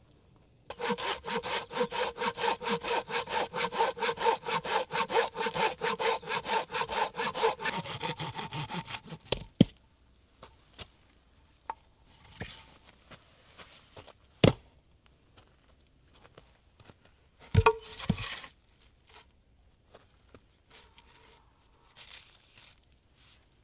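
Hand saw cutting through wood with quick, even strokes for about eight seconds, then a few sharp knocks and handling noises as the wood is moved.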